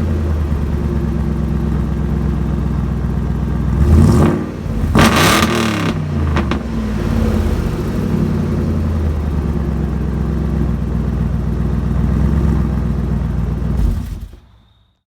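4.6-litre 32-valve modular V8 running through glasspack mufflers, idling with a deep steady note. About four and five seconds in it is revved briefly twice, the pitch rising and falling, before settling back to idle; the sound cuts off near the end.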